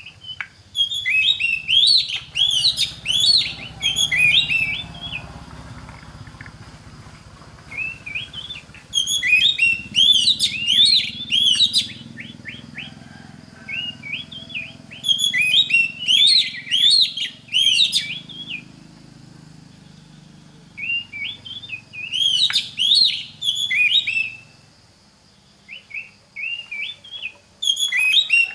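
Oriental magpie-robin singing: bursts of rapid, varied whistles and chirps, each a few seconds long, repeated about five times with short pauses between, over a faint low hum.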